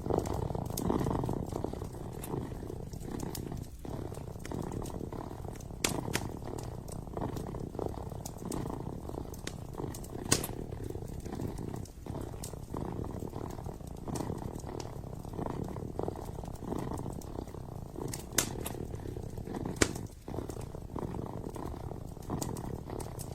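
Kitten purring steadily and close, a continuous pulsing rumble. A few sharp pops from a burning wood fire crackle over it, the loudest about 10, 18 and 20 seconds in.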